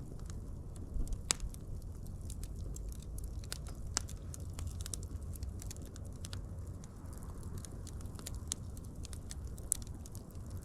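Wood fire crackling: a steady low rumble of burning with scattered sharp pops and snaps, a few louder pops standing out.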